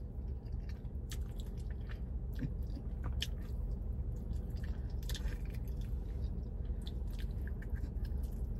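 A person chewing and biting into chicken wings, with scattered short clicks of the mouth and food.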